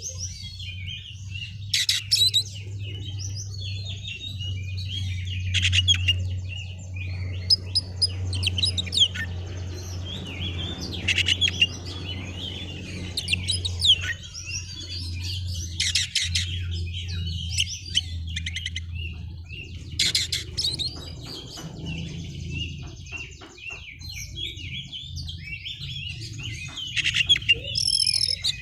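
Oriental magpie-robin (kacer) singing busily: a continuous run of varied chirps, whistles and short phrases, with several sharper, louder notes along the way, over a steady low hum.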